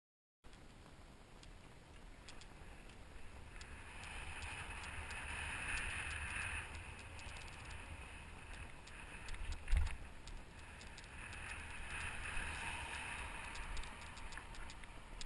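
Wind noise rushing over a helmet-mounted GoPro's microphone while riding, with a low rumble, scattered light clicks and rattles, and one louder thump about ten seconds in. The sound starts abruptly just after the beginning.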